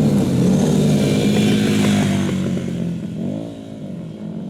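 Café racer motorcycle engine passing under load, loud for about three seconds, then dropping away with a brief rise and fall in pitch near the end.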